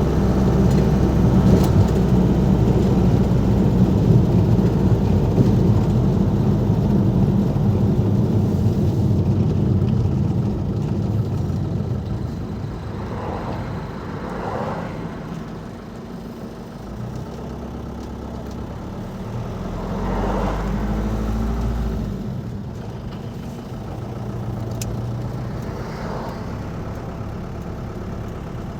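Ford Transit Mk5 van's 2.5-litre diesel 'banana' engine running on the move. It is loud for the first ten seconds, eases off, and swells briefly again a little past two-thirds of the way through.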